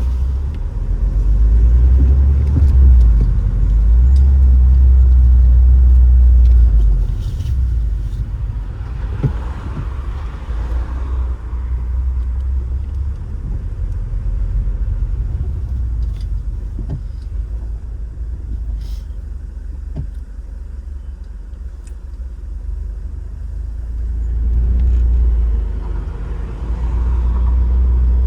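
Car driving: a steady low rumble of engine and road noise that swells in the first few seconds and again near the end, with a few faint clicks in between.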